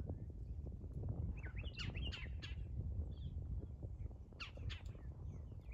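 Birds giving quick runs of short chirping calls, twice, over a steady low rumble.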